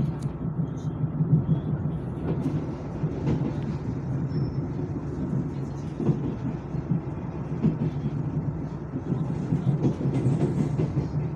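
Inside a Taiwan Railways Chu-Kuang Express passenger car running on the line: a steady low rumble of wheels on rail and the car body, with an occasional faint knock.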